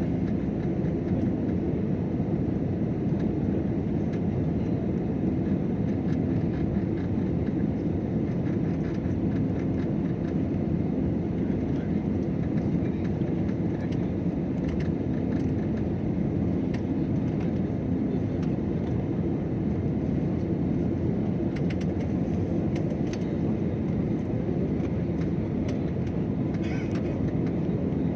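Steady low drone of an airliner's engines and rushing air, heard from inside the passenger cabin.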